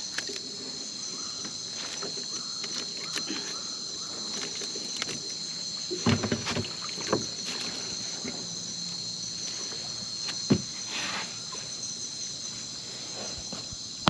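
Steady high insect chorus, several pitched bands held throughout, with a few scattered knocks, the sharpest about ten and a half seconds in.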